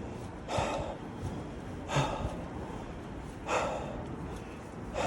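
A man breathing hard from the effort of cycling uphill: four heavy huffing breaths, about one every second and a half, over steady background noise.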